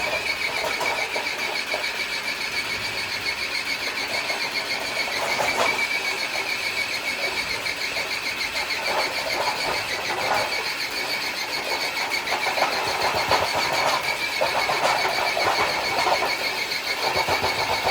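An electric RC crawler truck's motor and gears whining steadily under load as it drags a weighted sled across concrete, with irregular scraping from the sled under the whine.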